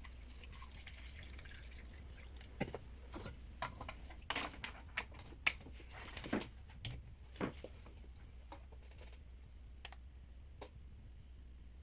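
Faint, irregular light clicks and taps from handling a small plastic humidifier, about a dozen of them between roughly three and eight seconds in, over a low steady hum.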